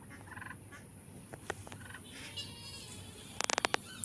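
Domestic turkeys calling softly in short rippling purrs and clucks. A quick cluster of sharp clicks comes near the end.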